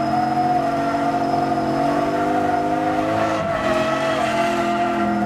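Drift car's engine held at steady high revs on track, the pitch dipping briefly about three and a half seconds in.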